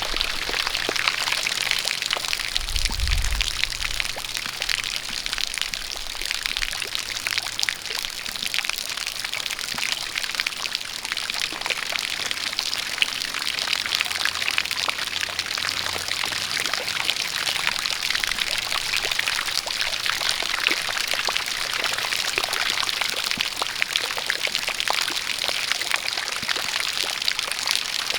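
Steady rain with a stream of water pouring and splashing: a continuous hiss dotted with many fine drop ticks, with a brief low rumble about three seconds in.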